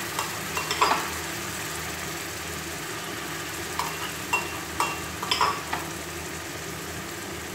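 Chopped onions and ground ginger-garlic masala paste frying in hot oil in a pan: a steady sizzle with scattered sharp crackles.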